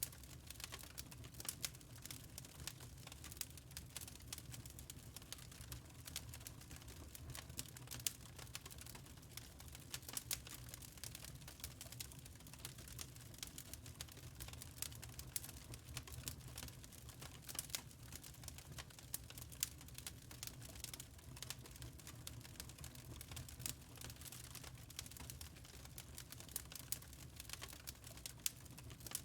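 Wood fire crackling in a fireplace: a constant run of irregular small pops and snaps over a low, steady rumble.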